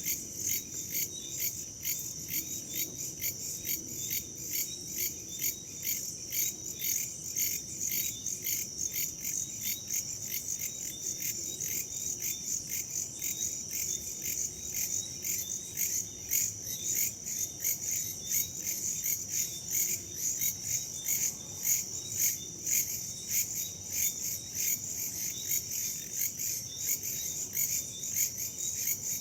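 Crickets and other insects chirping in a steady, rapid high-pitched pulse, with a faint low rush of wind beneath.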